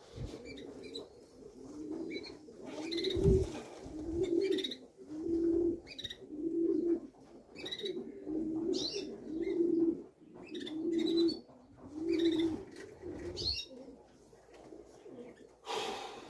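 Pigeon cooing over and over, about one coo a second, with short higher chirps of birds scattered over it and a single low thump about three seconds in.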